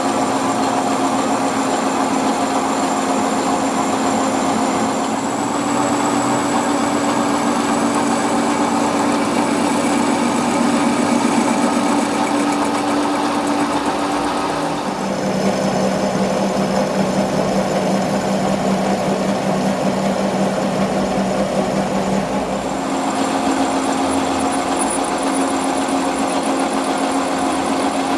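A machine motor running steadily with a droning hum. Its pitch shifts a few times, dropping lower about halfway through and going back up near the end.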